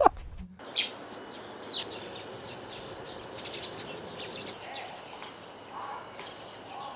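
Small birds chirping: many short, high, quick calls over a steady outdoor background hiss.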